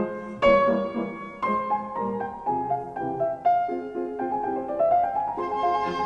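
Background piano music: a slow classical-style piece of struck chords and a melody.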